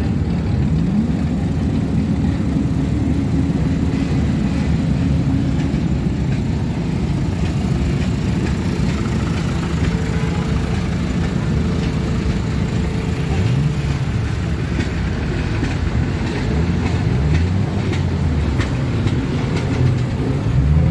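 Engines of several off-road 4x4s idling together in a queue, a steady low rumble, with engines revving up briefly a few times: about a second in, around the middle, and several times near the end.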